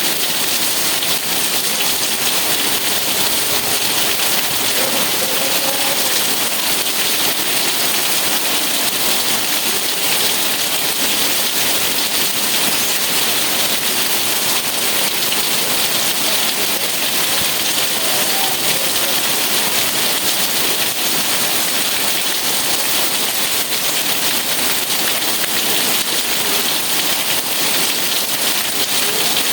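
Steady rain falling, a dense, even hiss that holds without breaks.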